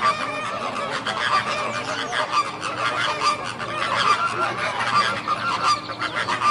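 A flock of flamingos honking, many short calls overlapping continuously.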